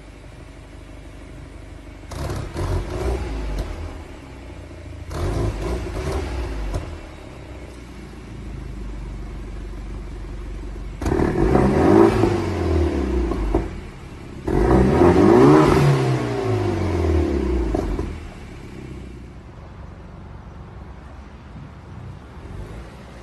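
BMW X3/X4 turbocharged engine breathing through a Top Speed Pro1 adaptive valve exhaust, idling and revved four times: two short blips, then two longer revs that climb and fall back to idle.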